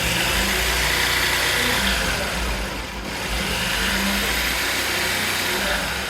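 Electric woodworking power tool running steadily with its motor under load as it cuts wood. The motor note dips briefly about halfway through and again near the end.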